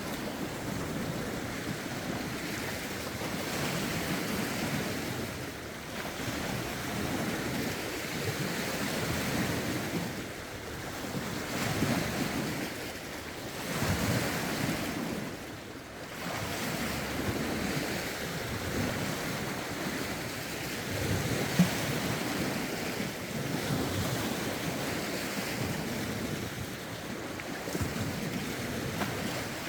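Lake waves washing against the shore in steady swells every few seconds, with gusty wind and some wind noise on the microphone. A single sharp tick about three quarters of the way through.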